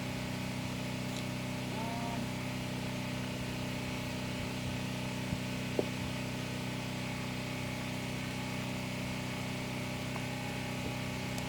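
A motor running steadily, a low even hum that does not change, with two faint clicks a little past halfway.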